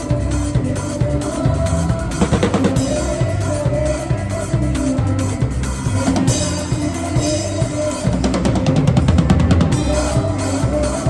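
Acoustic drum kit played over worship band music, heard through a phone's microphone in the room: a steady groove of bass drum and snare, with a fast run of strokes about eight seconds in.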